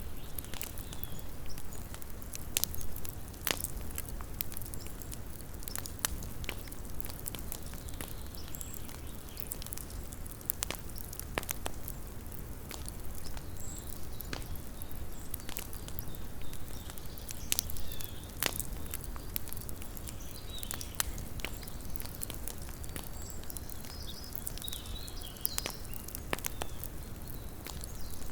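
Campfire crackling: burning wood giving off irregular sharp pops and snaps over a low steady rumble.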